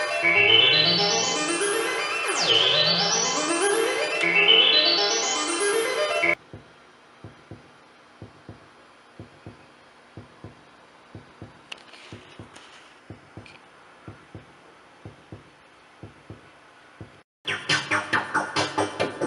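Altair 231 analog synthesizer playing: a held tone whose brightness sweeps upward again and again, about every two seconds, cutting off abruptly about six seconds in. Short soft low blips follow at an uneven pace, and near the end a loud, fast run of repeated bright notes, about four a second, starts suddenly.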